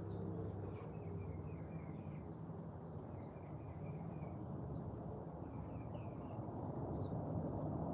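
Small birds chirping in short twittering runs, several times over, with a few single high notes between, over a steady low hum.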